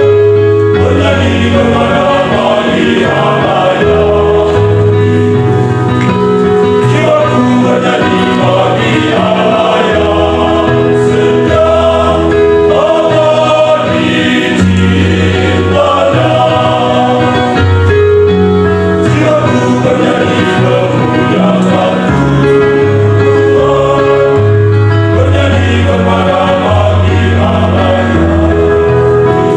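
Choir singing a gospel song, with long held low notes under the melody.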